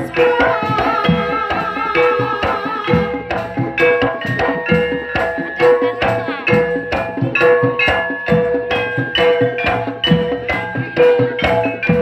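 Live jaranan gamelan music: hand-drum (kendang) strokes keep a steady fast beat, with pitched metal gong-chime tones repeating on the beat and higher melody notes over them.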